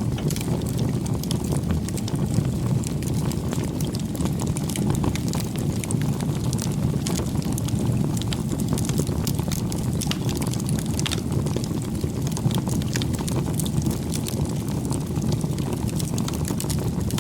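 Campfire burning: a steady low rumble of flames with frequent small crackles and pops from the burning wood.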